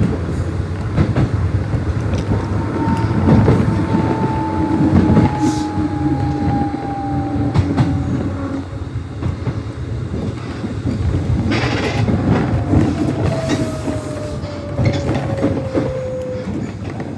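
Nishitetsu 600-series electric train running on the line, with a steady rumble and the clack of wheels over rail joints. Twice a thin whine slowly falls in pitch.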